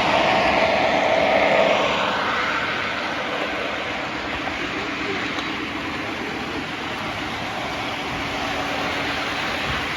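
Lionel O-gauge model train running on the layout track: a steady whirring and rumbling, louder for about the first two seconds as it passes close, then evener.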